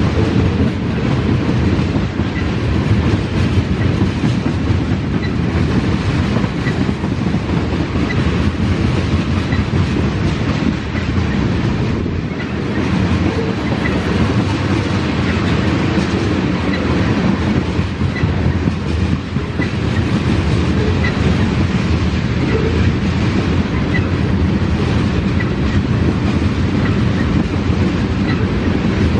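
Loaded tank cars of an oil train rolling steadily past at close range, steel wheels on the rails making a continuous rumble, with a short dip in level about twelve seconds in.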